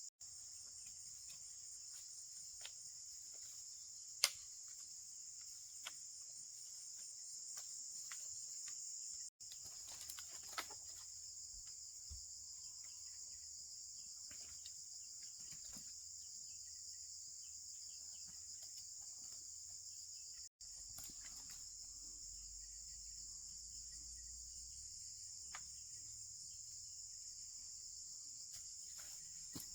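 Steady high-pitched insect chorus, with occasional faint clicks and knocks and one sharper click about four seconds in.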